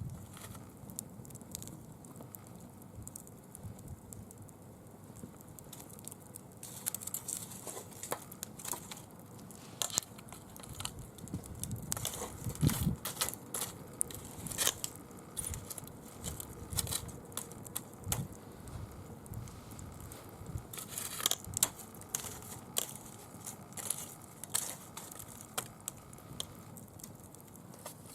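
Dry fallen leaves crackling as they burn in a small wood fire: irregular crisp clicks and crinkles, sparse at first and busier from about a quarter of the way in.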